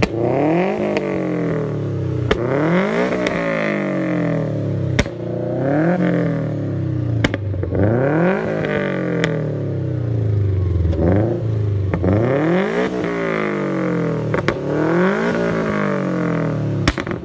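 Car engine revving, its pitch sweeping up and down again and again every two to three seconds, with a sharp click now and then.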